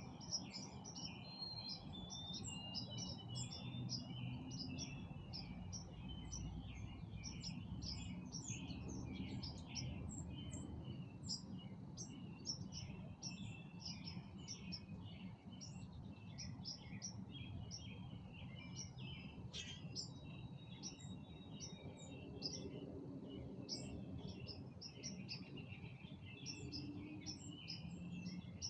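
Several songbirds chirping and singing over one another, a busy, unbroken run of short high calls, over a low steady background rumble.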